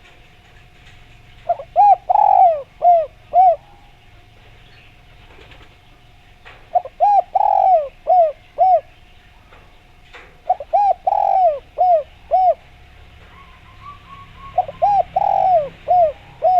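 Spotted dove (derkuku) cooing: four phrases of four or five short, rounded coos, each phrase about two seconds long, spaced a few seconds apart. This is the call used as a lure to get other doves to answer.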